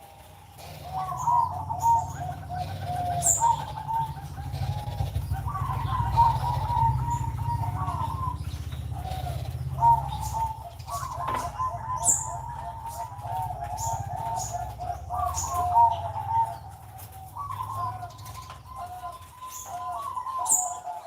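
Zebra doves (perkutut) cooing in repeated phrases of quick, bubbling notes, with a few short, high chirps from another small bird.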